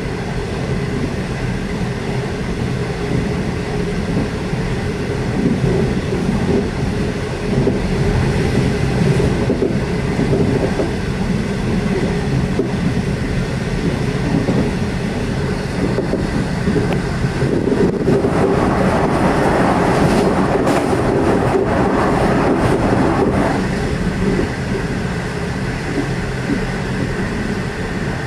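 Passenger train running at speed: a steady rumble of wheels on the rails, with clicks from the track. From about 18 to 23 seconds in, the noise grows louder and brighter, with a few sharp clicks, then settles back.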